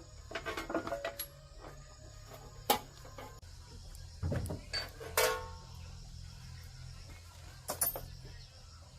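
Metal tools and parts clinking as they are handled, a few sharp clinks with a short ring, over quiet background music.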